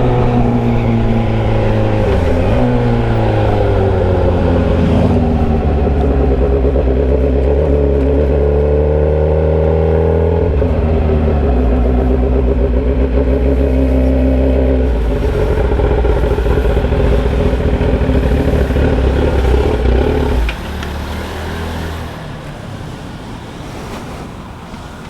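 Motorcycle engine running on an open pipe with no muffler while riding, loud, its revs falling and rising through several gear changes. About 20 seconds in the throttle is closed and the sound drops sharply, then drops again as the bike slows.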